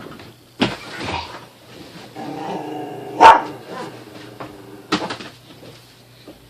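A dog vocalizing in play: a drawn-out growl lasting about two seconds, broken by one sharp bark in the middle, with a few scuffling noises before and after.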